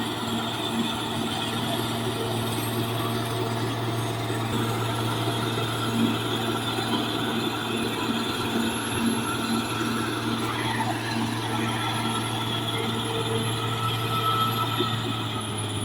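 Caterpillar D6R XL bulldozer's diesel engine running steadily at working revs, with a constant low hum and a faint regular pulse.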